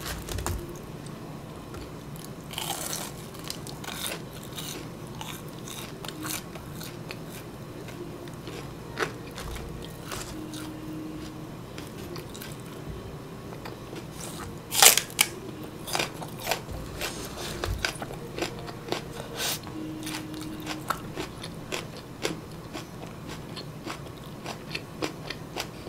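Close-up eating sounds: crunching and chewing of crispy breaded fried chicken and raw green onion stalks, with many small crackles throughout and a loud crunching bite about 15 seconds in followed by a run of smaller bites.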